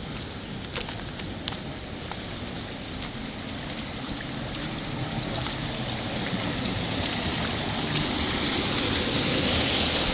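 River water flowing steadily, growing gradually louder toward the end, with a few faint clicks in the first couple of seconds.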